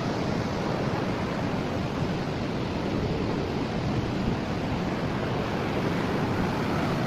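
Steady rush of fast-flowing stream water tumbling over rocks.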